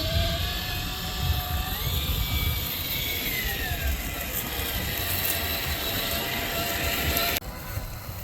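Axial SCX6 RC crawler's electric motor and drivetrain whining as it drives, the pitch rising and falling with the throttle over a low rumble. The sound cuts off abruptly near the end, leaving a quieter sound.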